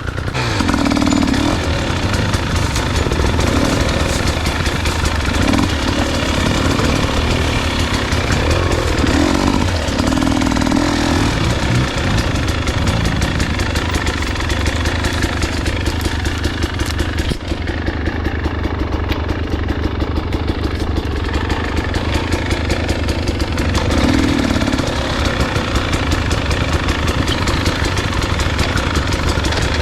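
Dirt bike engine running continuously while the bike is ridden along a trail, with a brief dip in level partway through.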